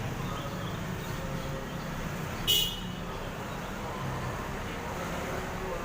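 Street traffic running steadily, with one short, sharp vehicle horn toot about two and a half seconds in.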